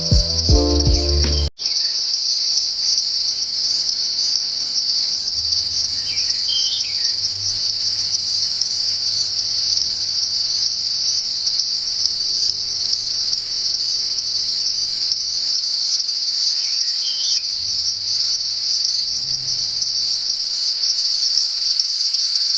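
Dense, steady chorus of insects shrilling high and continuously. Music cuts off abruptly about a second and a half in, and a few faint short chirps come through twice.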